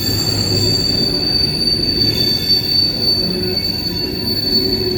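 Empty coal hopper cars of a freight train rolling slowly past, their wheels squealing on the rail in one steady, high, piercing tone over a continuous rumble.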